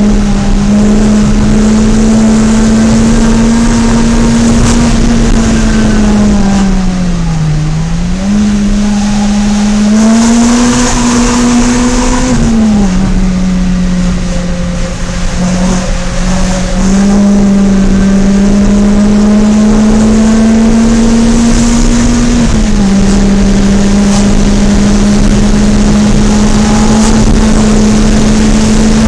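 Renault Clio RS 197's 2.0-litre four-cylinder engine heard from inside the cabin while driving. Its note climbs slowly and drops abruptly at gear changes about twelve and twenty-two seconds in, with a dip and recovery around seven to eight seconds in.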